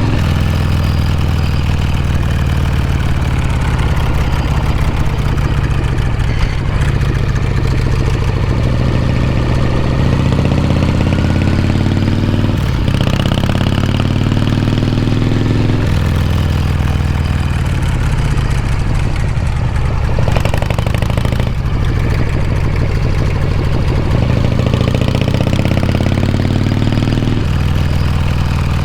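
1979 Harley-Davidson FXEF Shovelhead V-twin being ridden, its exhaust note pulling up in pitch and then dropping back sharply several times as the revs climb and fall.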